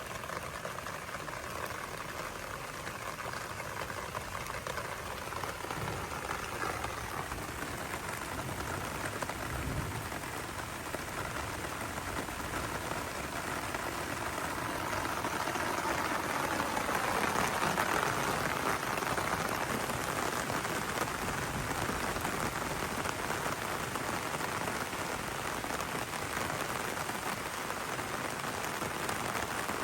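Heavy rain falling and pattering on surfaces, a steady hiss that swells louder about halfway through.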